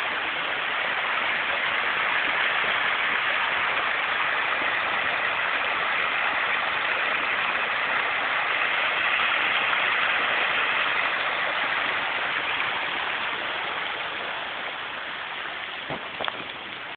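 Heavy rain pouring onto a pond's surface: a steady, dense hiss that eases a little toward the end. A couple of brief knocks near the end.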